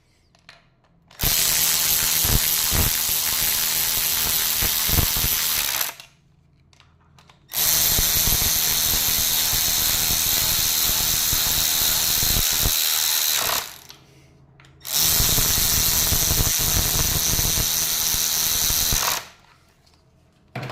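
Handheld power tool motor running in three bursts of about four to six seconds each, with short pauses between them.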